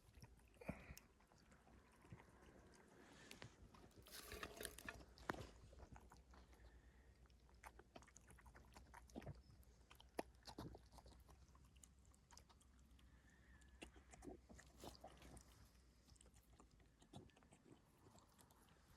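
Dogs chewing and eating their food, faint: scattered soft crunches and clicks, busiest about four to five seconds in.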